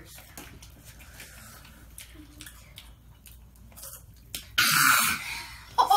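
Crunchy spicy chips (Takis and Hot Cheetos) being chewed, heard as faint scattered crunches and clicks. About four and a half seconds in comes a loud, breathy rush of noise lasting under a second.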